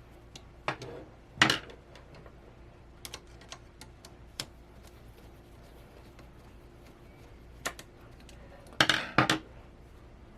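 Small hard parts of a monitor mount adapter being handled, with scattered light clicks and clinks. The loudest knock comes about a second and a half in, and a quick cluster of knocks follows near the end.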